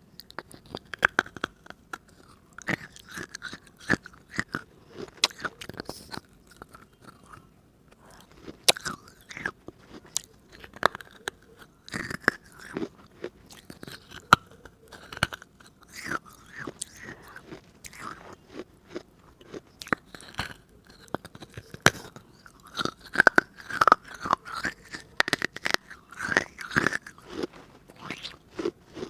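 A hard fired-clay diya (earthen lamp) being bitten and chewed close to the microphone: many sharp, irregular crunches with softer chewing between them.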